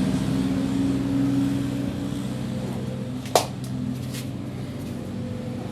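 Steady low machine hum with a sharp metallic click about three and a half seconds in and a fainter one shortly after.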